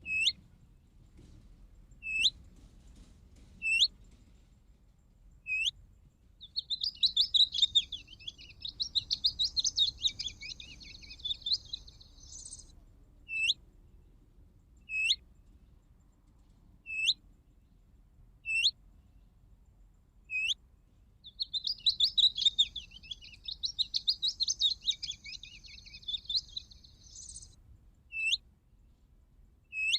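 Bird calls played back from a hunting caller device: a short, sharp call note repeated every second and a half or so, broken twice by a long, rapid, chattering song phrase lasting about six seconds.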